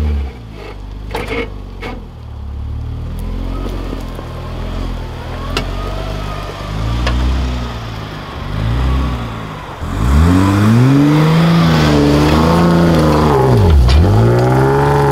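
Jeep Wrangler JK engine revving up and down under off-road load, loudest and most sustained in the last five seconds, with one deep drop and recovery near the end. There are a few sharp knocks in the first seconds and a couple more midway.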